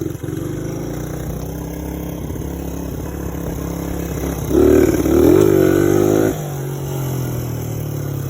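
Small single-cylinder four-stroke engine of a 1986 Suzuki DR100 dirt bike running steadily, revved up once about four and a half seconds in for under two seconds, then settling back.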